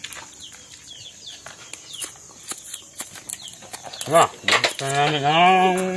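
Faint, short, high falling chirps from birds repeat every half second or so. Near the end a man's voice makes one long, drawn-out wordless sound, the loudest thing heard.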